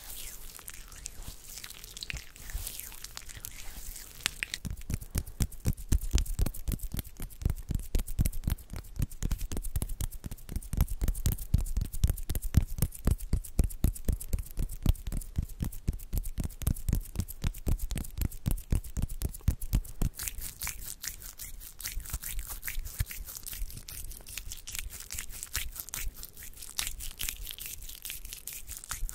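ASMR hand sounds close to the microphone: a fast, even run of short strokes, several a second, heavier through the middle and lighter near the end.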